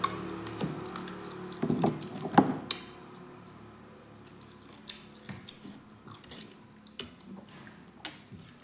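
Close-miked mouth sounds of pork being bitten and chewed off the bone, with a few sharp crunchy snaps about two seconds in, then quieter wet chewing and small clicks. A low hum fades away over the first few seconds.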